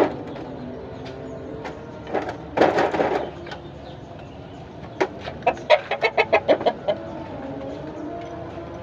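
Chickens clucking: a louder squawk about two and a half seconds in, then a quick run of about eight clucks near six seconds in.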